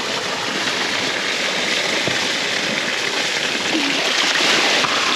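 Steady rush of fresh creek water falling and splashing, as in a natural freshwater shower.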